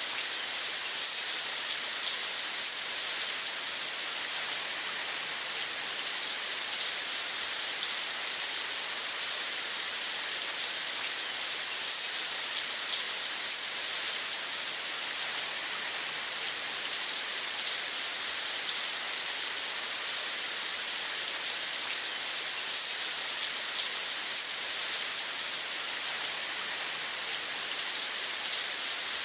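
Steady rain falling: an even, unbroken patter of drops.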